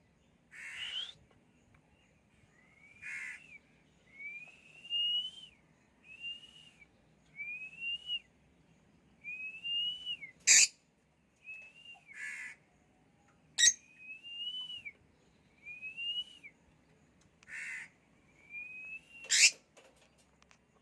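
Pet lovebirds calling: a run of short rising whistled calls about once a second, mixed with harsh squawks. Three brief, loud, sharp sounds break in, about halfway, a few seconds later, and near the end.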